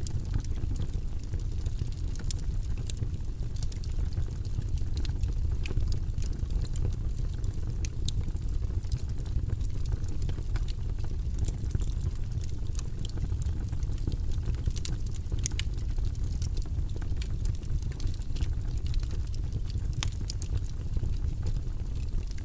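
Fire burning in a fireplace: a steady low rumble with scattered sharp crackles and pops throughout.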